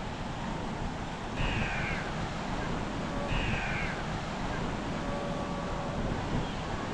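A bird calls twice, about two seconds apart, each call about half a second long and falling slightly in pitch, over a steady hiss of surf and wind.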